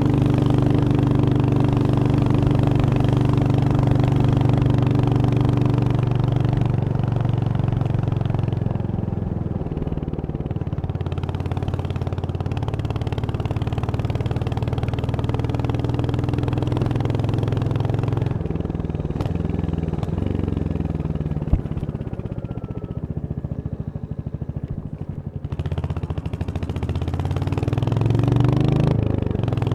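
Royal Enfield Hunter 350's single-cylinder engine running while riding, holding a steady pitch for the first ten seconds or so. It eases off and quietens a little past the middle, then picks up again near the end with a rising pitch. A single sharp click comes a little over 21 seconds in.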